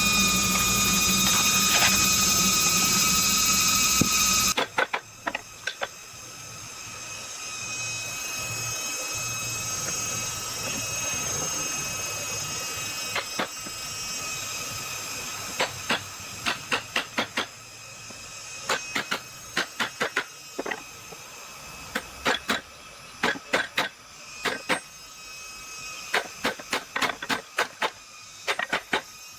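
A power tool runs steadily with a high, even whine, then cuts off about four seconds in. After that come scattered clusters of short, sharp clicks and taps over a soft background hiss.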